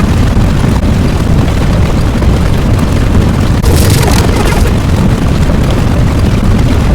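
A loud, continuous rumbling roar of an explosion-type sound effect, with a rush of hiss about four seconds in.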